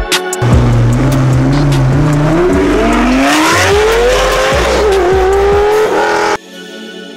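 Lamborghini Gallardo's V10 accelerating away hard, its pitch climbing steadily, dropping briefly at a gear change about four and a half seconds in, then climbing again. It cuts off suddenly near the end, and quieter background music takes over.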